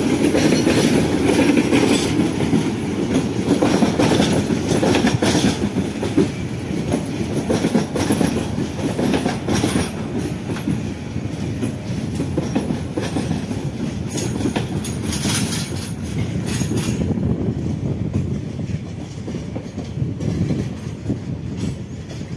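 Passenger train coaches rolling past close by, the wheels clattering over the rail joints. The clatter grows quieter over the last few seconds as the train slows for a stop signal.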